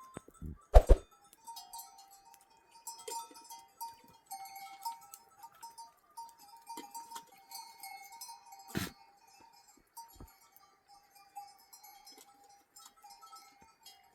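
Sheep and goat flock with bells clinking lightly and occasional bleats, over faint background music carrying a sustained melody. Two sharp knocks stand out, about a second in and about nine seconds in.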